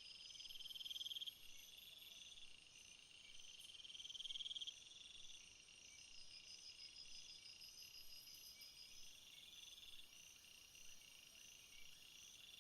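Faint jungle chorus of insects: a high buzzing trill swells and cuts off about a second in and again near five seconds, over steady rows of rapid, repeating high chirps.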